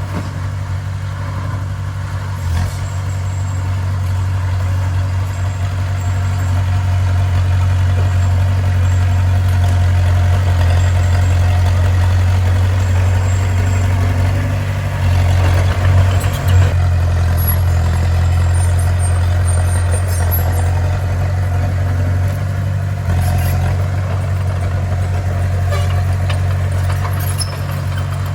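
Bulldozer engine running steadily with a deep, constant drone, briefly louder about sixteen seconds in.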